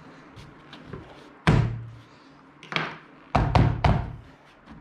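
A string of sharp knocks and thunks from the car seat's plastic side cover and frame being pressed and handled: one about a second and a half in, another near three seconds, then three in quick succession.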